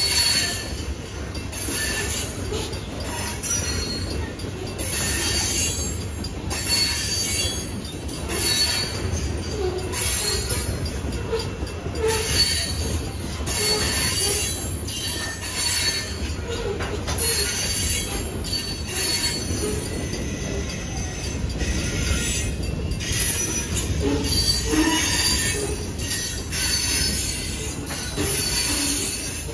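Freight train's railcars rolling past at close range: a steady rumble of steel wheels on rail, with intermittent high-pitched wheel squeals coming and going.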